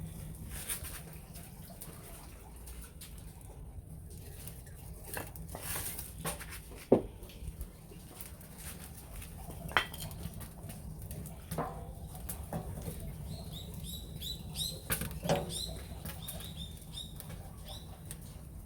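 Wood fire crackling in a ceramic pot, with scattered sharp pops from the burning wood over a steady low rumble. A short run of high chirps comes about two-thirds of the way in.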